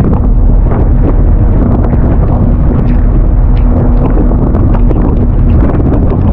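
Strong wind buffeting the microphone, with a steady low hum underneath and many small scattered taps.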